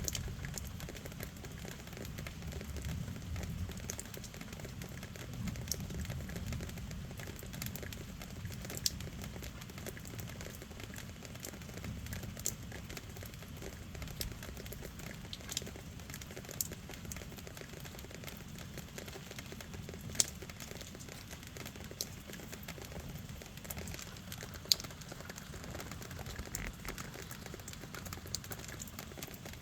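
Steady rain with scattered sharp drips ticking throughout, and a couple of noticeably louder ticks in the second half.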